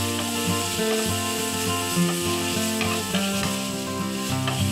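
Sliced onion and beef sizzling in a nonstick frying pan as they are stirred, over background music of sustained notes.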